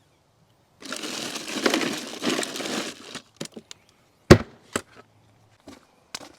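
Handling noise: about two seconds of loud rustling and crinkling, then a few sharp clicks or snaps, the loudest about four seconds in.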